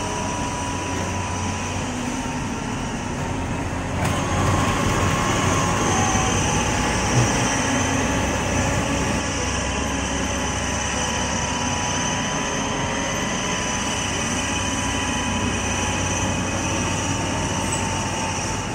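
Work train of loaded flat wagons rolling along newly laid track: steady rolling noise with thin, steady high tones over it. It grows a little louder about four seconds in.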